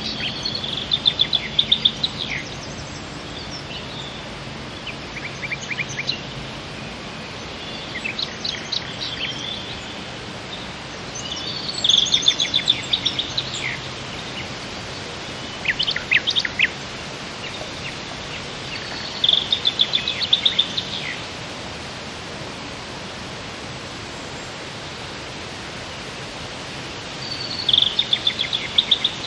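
A songbird calling in short bursts of high chirps and rapid trills, about seven phrases a few seconds apart, over a steady background hiss.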